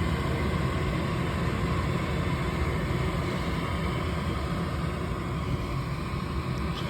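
Gas furnace's draft inducer (booster) motor running steadily with a rushing whir, gas valve open but no burner ignition: the hot-surface igniter has failed and never lights.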